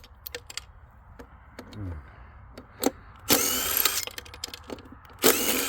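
Power drill run in two short bursts of about a second each, backing out bolts from a large circuit breaker, with light clicks and knocks of tools and metal parts in between.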